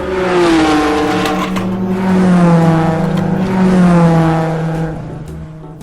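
Car engine sound revving and easing off: one pitched drone that dips in pitch, then holds and swells twice before fading near the end, over a low pulsing underneath.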